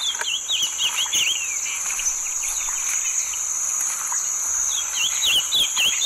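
Olive-crowned yellowthroat song: a quick run of short sweeping notes in the first second or so, and another from about five seconds in. A steady, high-pitched insect trill runs behind it.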